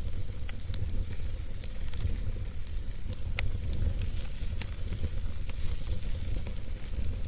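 Wood fire burning in a fireplace: a steady low rumble and hiss with irregular crackles and pops from the burning wood, one sharper pop about three and a half seconds in.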